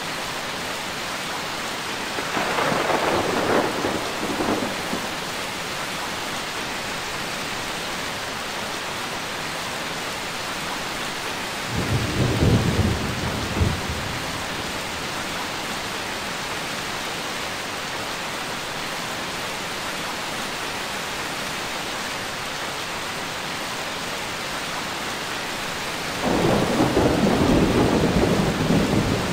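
Steady heavy rain with thunder rumbling three times: a crack-like peal a couple of seconds in, a deep low rumble near the middle, and a longer roll near the end.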